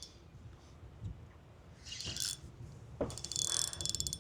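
Fishing reel clicking in fast runs of ticks, briefly about two seconds in and again from about three seconds on, while a hooked jack crevalle is fought on light tackle.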